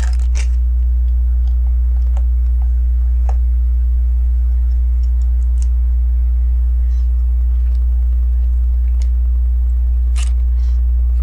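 Steady low electrical hum, with a few faint sparse clicks and taps of plastic LEGO pieces being handled, the clearest about two, three and ten seconds in.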